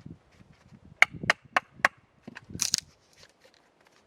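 Batoning firewood into kindling: a knife blade driven into wood by blows from a baton, four sharp knocks in quick succession about a second in, then a short crackling burst.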